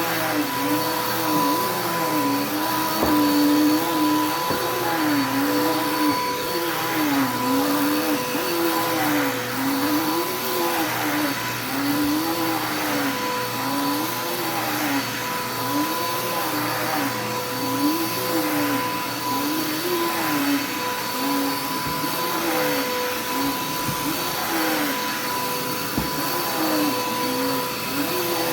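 Vacuum cleaner running steadily on carpet, with a lower hum that wavers up and down in pitch every second or two.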